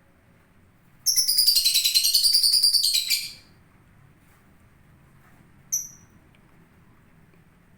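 Lovebird calling: a loud burst of rapid, high-pitched chattering calls lasting about two seconds, starting about a second in, then a single short chirp a few seconds later.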